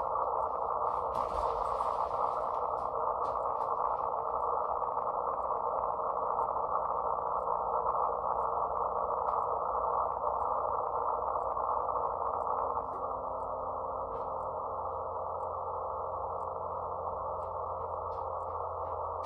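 Elecraft K2 HF transceiver putting out a steady band of hiss and static through its speaker, narrowed by its receive filter, with faint clicks throughout. About 13 seconds in, the noise suddenly drops and several faint steady tones show through it: the house's main breaker switched off, removing electrical interference (QRN) from the house wiring.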